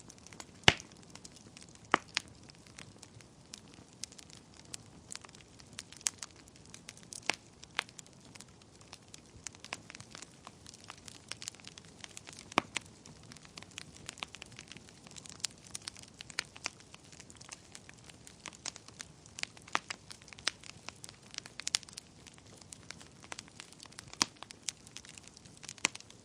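Wood fire burning in a fireplace, crackling with irregular sharp pops over a soft hiss; a few pops stand out, the sharpest about a second in.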